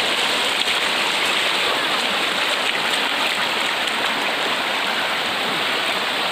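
Swollen river floodwater rushing steadily, a constant noisy wash of water.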